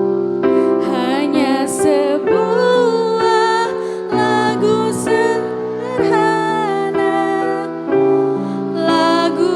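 A choir of school students singing, accompanied by held keyboard chords.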